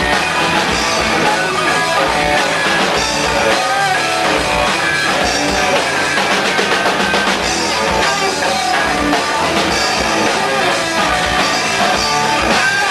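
Rock band playing an instrumental outro: electric guitars, bass and drum kit at a steady beat, with no vocals.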